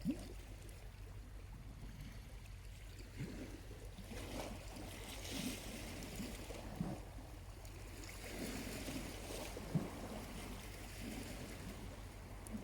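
Small waves lapping at the shore, washing in twice with soft hissing swells and a few low splashes, over a steady low rumble.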